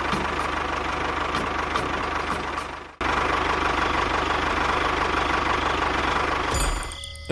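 Steady engine running noise. It drops out abruptly about three seconds in, starts again at once, and fades away near the end.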